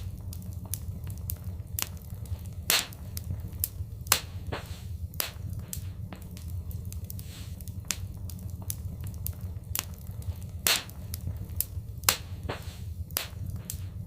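Fireplace crackling, with sharp pops at irregular intervals over a steady low rumble. The loudest pops come a few seconds in and again after about ten seconds.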